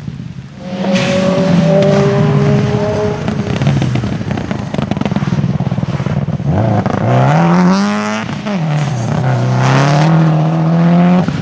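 Rally car engine running at high revs, accelerating hard. About two-thirds of the way in the revs sweep up, drop sharply and then climb again, as at a gear change or a lift off the throttle. It cuts off suddenly near the end.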